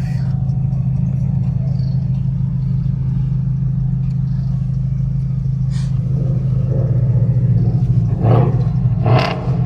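Car engine and exhaust running with a steady low drone, with two short louder sounds near the end.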